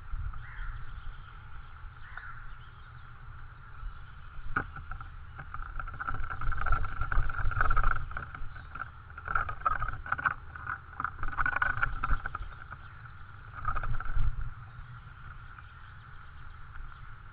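Scraping, rustling and a sharp knock from a tawny owl moving on a wooden nestbox, picked up by the box's camera microphone. The knock comes about four seconds in and the loudest scraping from about six to twelve seconds, over a steady low hum.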